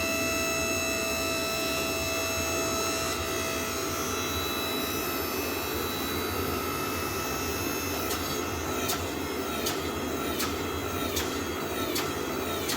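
Steady roar of forge-shop equipment, with faint metallic ringing fading away over the first few seconds. From about eight seconds in, light ticks come evenly, a little more than one a second.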